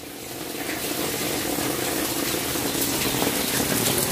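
Heavy rain falling, a steady hiss that fades in over the first second, picked up by the phone's built-in microphone with the external clip-on mic unplugged.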